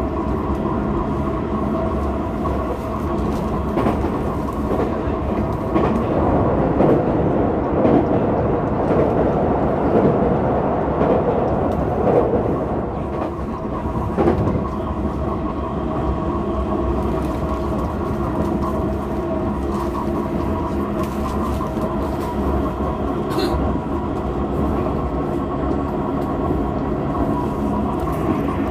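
Tokyo Metro 16000 series electric train running at speed, heard from inside the car: a steady rumble of wheels on rail with a hum of several steady tones from the running gear and occasional clicks as the wheels cross rail joints.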